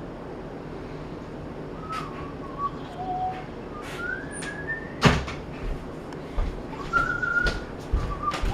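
Scattered short whistled notes, some gliding up or down in pitch, with a few clicks and one sharper knock about five seconds in.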